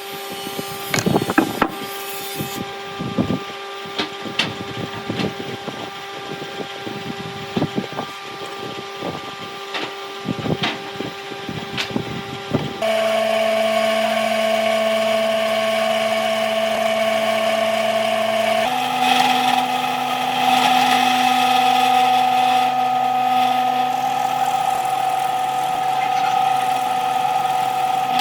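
Electric power tool motor running steadily while working wood, with many sharp knocks and taps over its steady hum in the first half. About halfway through it gives way suddenly to a louder, higher steady whine, which shifts pitch slightly a few seconds later.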